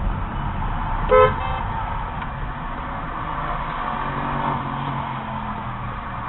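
A car horn gives a short toot about a second in, over steady road and engine noise from a moving car.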